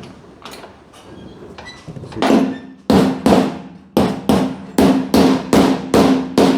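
A hammer beating a bent metal tab flat, starting about two seconds in: about ten hard blows, two or three a second, each with a ringing metallic tone, taking the hump out of the tab. Lighter taps come before the blows.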